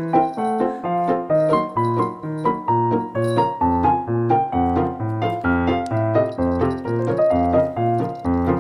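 Background piano music: a quick run of melody notes over a repeating bass line that comes in about two seconds in.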